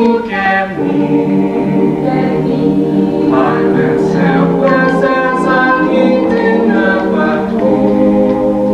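A mixed choir singing a cappella, several voice parts holding and shifting sustained chords together, with no instruments.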